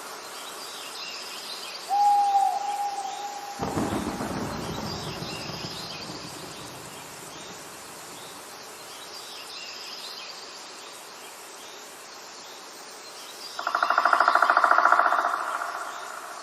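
Forest ambience: faint, repeated high bird chirps, with a single held hoot-like call about two seconds in. A low rumble of thunder starts suddenly just after and slowly fades, and near the end a loud, rapid trilling call rises and dies away.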